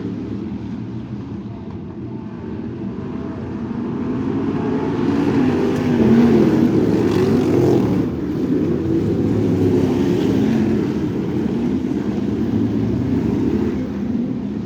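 Crate sprint car engine running at racing speed. Its pitch rises and falls with the throttle through the turns, and it is loudest from about five to eleven seconds in.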